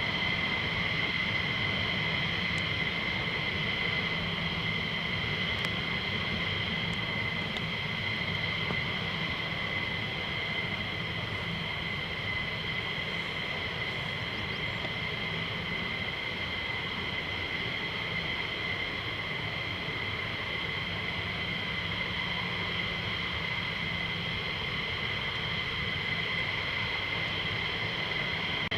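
Military jet engine running on the ground: a steady high whine with several held tones over a low rumble, unchanging throughout.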